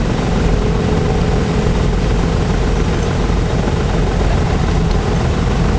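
Bumper boat motors running with a steady drone and low rumble.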